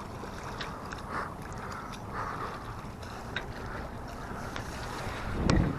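Wind buffeting the microphone over the rush of water along a sailboat's hull, with a few light ticks and a louder low thump near the end.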